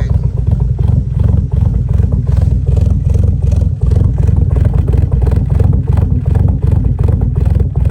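1988 Mitsubishi Starion's turbocharged G54B 2.6-litre four-cylinder idling steadily through a full 3-inch turbo-back exhaust, heard at the tailpipe: a low, even exhaust note with the engine still cold.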